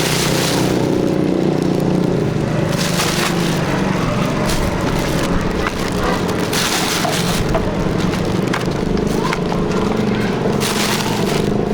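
A small engine running steadily, with short bursts of rustling four times.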